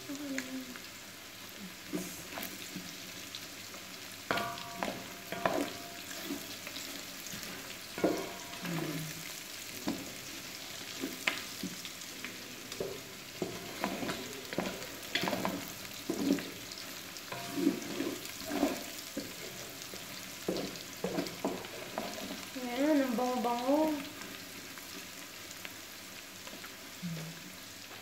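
Beef and onions sizzling in oil in a large aluminium pot, stirred with a wooden spatula that scrapes and knocks against the pot again and again while the meat is being browned. Late on, a brief wavering pitched sound stands out over the sizzle.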